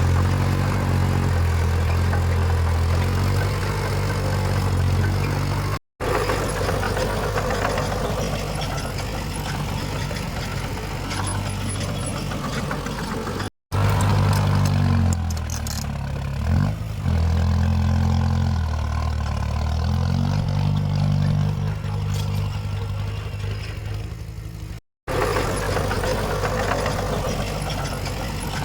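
Heavy diesel engines of earthmoving machines running, their pitch shifting from one stretch to the next, broken by three abrupt cuts where the sound drops out for an instant.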